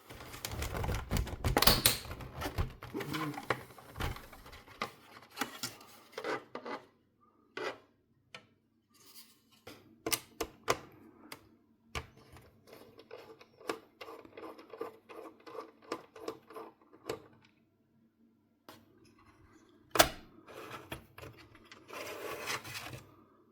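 Hands handling and working on a PlayStation 4 console: irregular clicks and taps with bouts of rubbing and scraping, the heaviest scraping in the first couple of seconds and one sharp click near the end.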